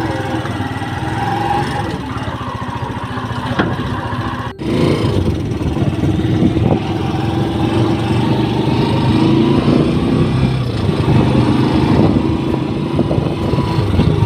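Motorcycle engine running steadily under load. It breaks off sharply about four and a half seconds in and returns louder.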